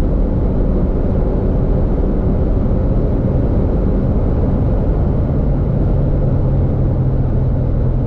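VW Polo GTI's 2.0 TSI four-cylinder car running at a steady speed, with a dense, steady road and wind rumble and no revving up or down; a steady low engine drone comes in about five seconds in.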